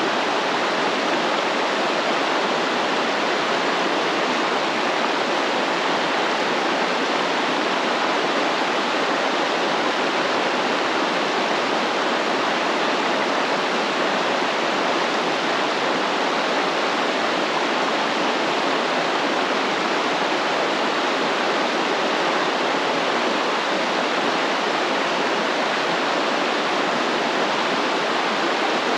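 Stream water flowing steadily, a constant even rush of running water.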